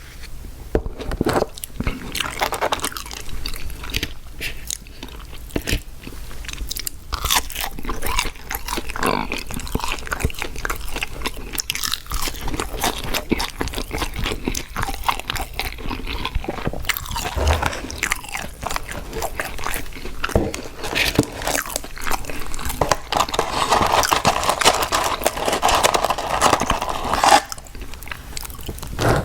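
Close-miked biting and chewing of fast food, with irregular crunches and wet mouth clicks. About 24 seconds in, a steady rushing noise lasts roughly four seconds.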